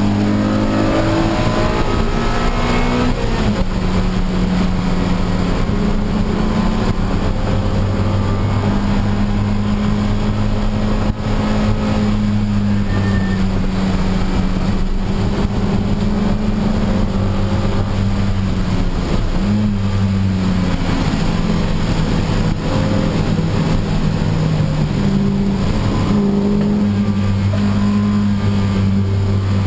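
Honda Civic Si race car's engine running hard at fairly steady revs, its pitch dropping and rising again a few times as the driver lifts and shifts, over a steady hiss.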